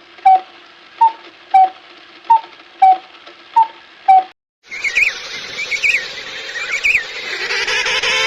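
Bird calls: a short, sharp call repeated about twice a second, then after a brief break a busier chorus of many birds calling together.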